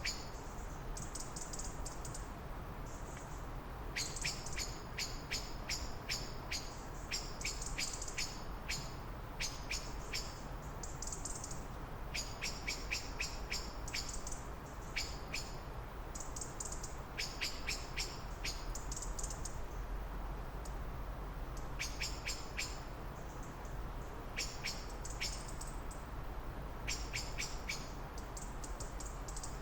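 Small birds chirping in repeated bouts of high, quick notes mixed with sharp ticking calls, over a steady low background rumble.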